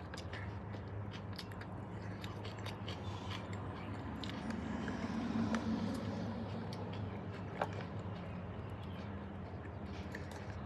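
Close-up chewing and mouth sounds of someone eating, with many small wet clicks, over a steady low hum. A louder low rumble swells for a second or two midway.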